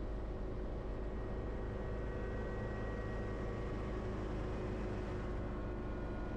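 Schweizer 300C helicopter's piston engine and rotors running in a steady drone, heard from inside the cockpit during the approach to land.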